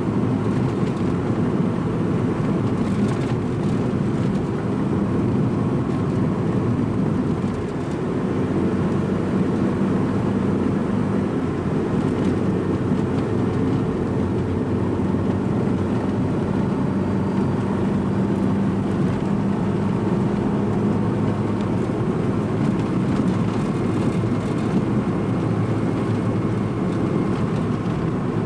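Strong coastal wind blowing across the microphone, a loud, steady, low rumble with no letup.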